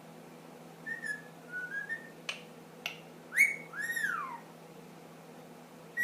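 Pet Indian ringneck parakeet whistling: a few short notes, then two loud whistles that rise and then slide down in pitch, with a couple of sharp clicks between them.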